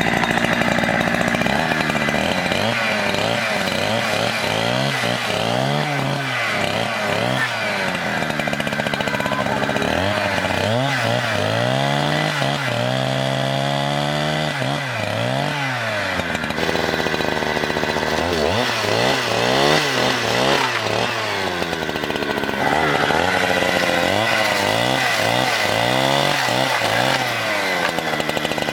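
Chainsaw running, its engine pitch rising and falling over and over as it is revved and loaded in a cut.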